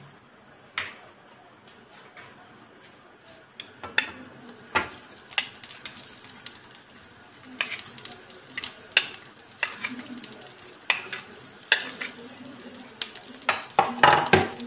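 Sliced onions going into hot oil in a kadhai and being stirred: a light sizzle, with a utensil knocking and scraping against the pan in irregular sharp clicks. The clicks come more often from about four seconds in and are loudest near the end.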